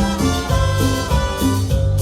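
Live cumbia band playing an instrumental passage, with bass and sustained melody notes over a steady beat.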